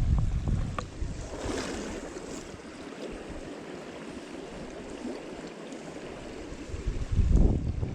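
Steady rush of a flowing stream, with gusts of wind buffeting the microphone at the start and again near the end.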